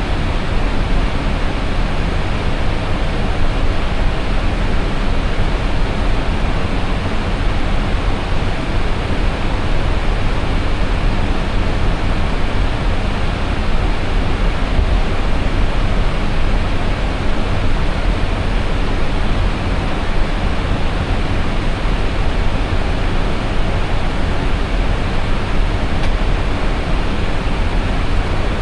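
Steady rushing cockpit noise of an Airbus A320 in flight: airflow over the nose and cockpit ventilation, a loud even hiss weighted to the low end.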